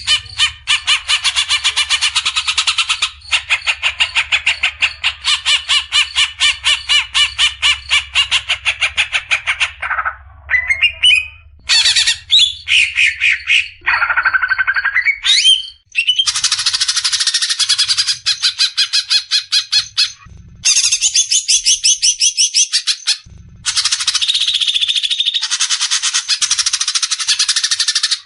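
Green leafbird (cucak ijo) giving its harsh, fast rattling 'besetan' calls in long runs. Near the middle the rattle breaks for a few gliding notes and a held high whistle, then the rattling runs resume with short pauses.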